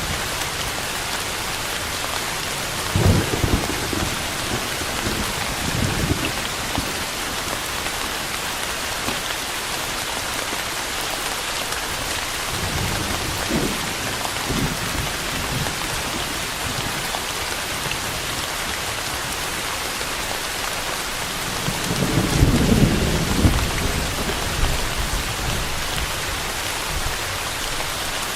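Steady rain falling, with several low rolls of thunder; the longest and loudest comes about three-quarters of the way through.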